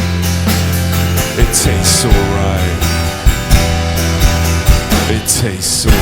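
Live rock band playing an instrumental passage: guitars over a steady bass line and drums, with cymbal crashes about one and a half seconds in and again near the end.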